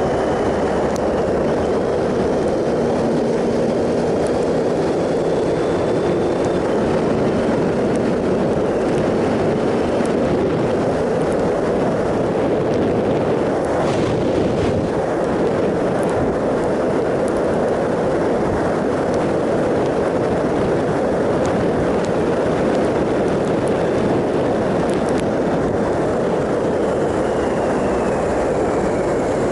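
Triumph Sprint ST 1050 motorcycle riding along at a steady pace: the engine's drone under a loud, even rush of wind noise.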